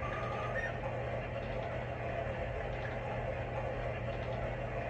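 Vintage light-up moving-waterfall picture playing its built-in nature sound: a steady rushing-water noise with a low hum under it, and a short high tone near the start.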